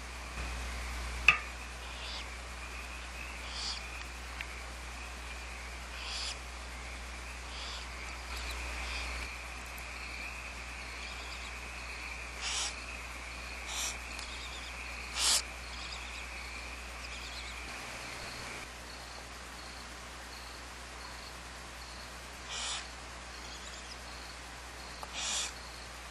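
Barn owls in the nest giving about seven short, hissy screech calls scattered through, over a steady high whine that stops about two-thirds of the way through. A single sharp click comes about a second in.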